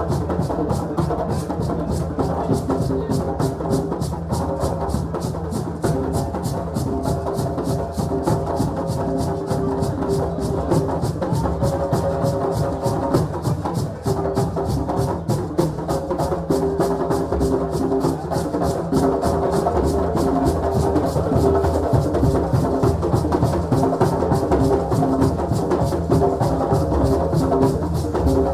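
West African celebration drumming: a fast, steady rhythm of sharp drum strokes, with sustained pitched notes running over it.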